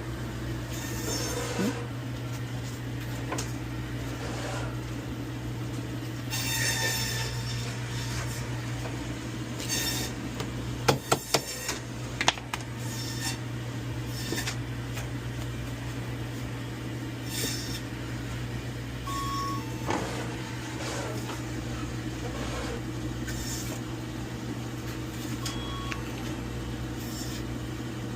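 Meat being cut and handled over a steady low electric hum, with scattered light scrapes and clicks. A quick run of sharp knocks comes about eleven seconds in, and short single beeps come twice later on.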